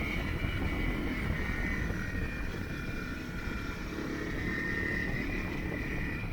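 Motorcycle running steadily under way, its engine and rushing wind noise low and continuous.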